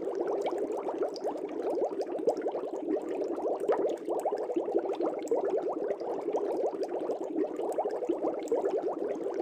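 Aquarium air bubbles rising in water, a steady dense bubbling made of many small quick bubble pops.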